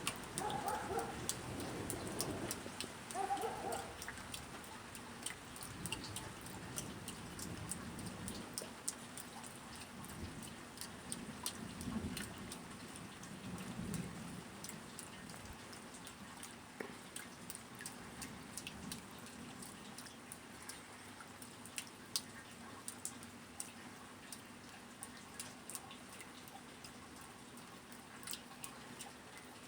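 Rain falling, with single drops ticking sharply on a hard surface close by. Low rolls of distant thunder come in the first few seconds and again about halfway through.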